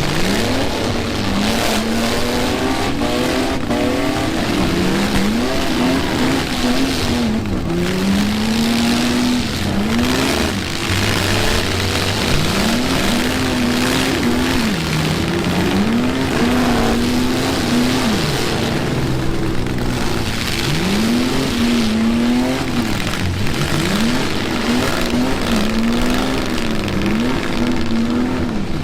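Pickup truck engines revving hard in a demolition derby, the pitch climbing and dropping again every second or two as the drivers floor it and back off, over a constant din of engine and tyre noise.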